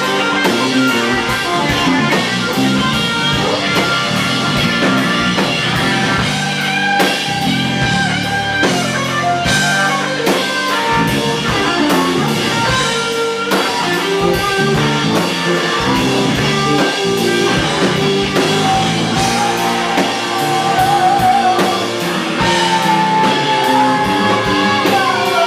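Live rock band playing an instrumental passage, with electric guitar leads over bass and drum kit. Near the end the guitar holds a long vibrato note that bends.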